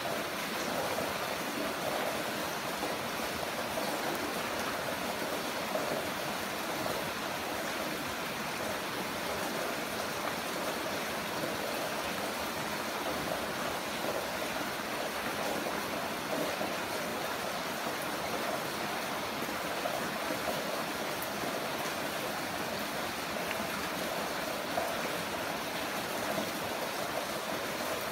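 Heavy rain falling in a steady, even downpour, with no let-up or change.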